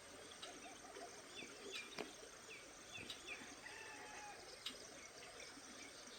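Faint birdsong: a string of short, high chirps in the middle, lower wavering notes early on, and a few sharp clicks.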